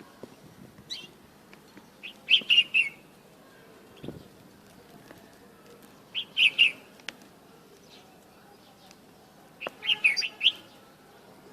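A bulbul singing three short, fluty phrases of a few quick notes each, spaced about four seconds apart.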